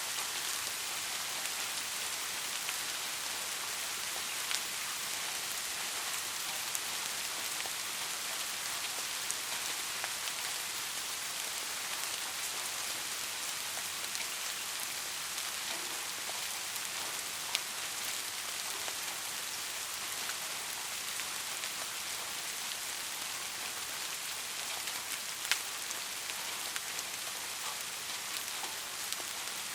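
Steady rain falling, an even hiss with scattered individual drops ticking sharply, a few louder near the end.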